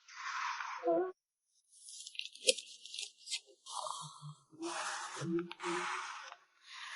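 Plastic packaging crinkling and rustling as photocards are handled and packed, with sharp little ticks and crackles. It cuts out completely for a moment about a second in.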